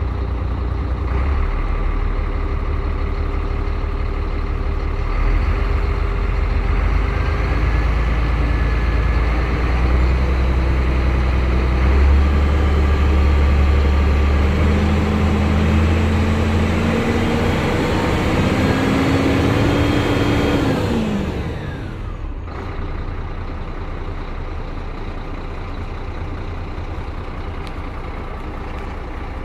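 Scania 114 380 truck's six-cylinder diesel engine running with a heavy rumble, revved slowly higher for several seconds, then dropping quickly back to a steady idle about 21 seconds in.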